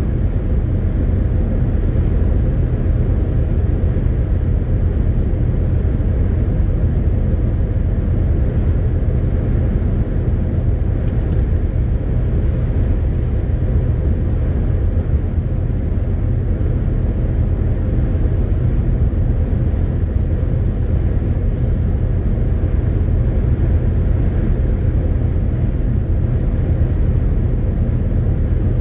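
MAN TGX 18.520 truck's straight-six diesel engine and road noise, a steady low drone that holds at an even pitch and level throughout, as the truck drives at constant speed.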